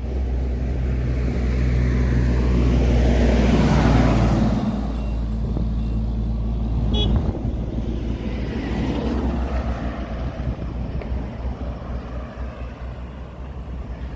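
A motor vehicle running close by on the road, its engine and tyre noise loudest about four seconds in and then easing off. A short high beep sounds about seven seconds in.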